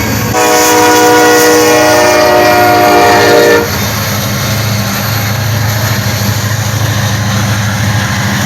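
A freight locomotive's horn sounds one long, loud chord-like blast that cuts off about three and a half seconds in. After it the train's steady low rumble carries on.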